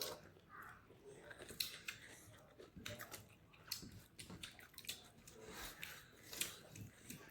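Close-up mukbang eating sounds: a person chewing a mouthful of fish curry, with many short wet mouth clicks and lip smacks scattered irregularly throughout.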